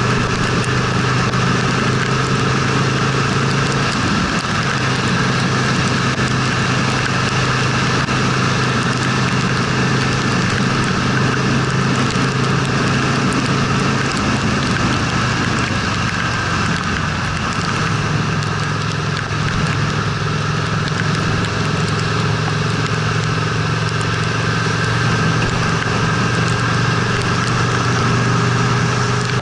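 Honda Steed V-twin motorcycle engine running steadily under way, over a constant hiss of wind and wet road. The engine tone sags briefly about four seconds in and again for a few seconds midway, then settles back.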